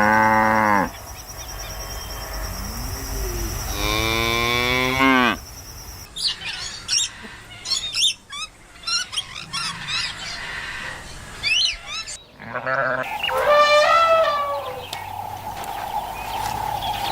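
Cattle mooing: one call at the start and a longer call dropping in pitch about four seconds in. Then several seconds of quick high chirps, and near the end a higher, wavering animal call, repeated.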